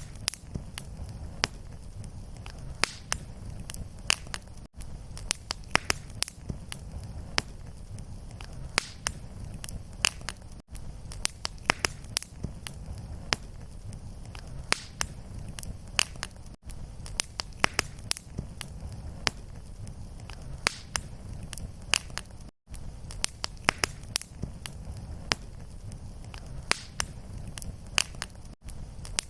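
Wood fire burning in a fireplace: a steady low rumble of flame under frequent sharp crackles and pops, with a brief dropout about every six seconds.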